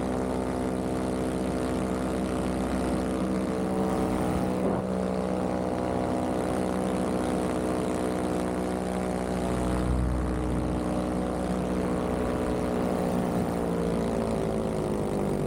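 Vittorazi Moster 185 paramotor's single-cylinder two-stroke engine and propeller running steadily in flight, the pitch easing down slightly near the end.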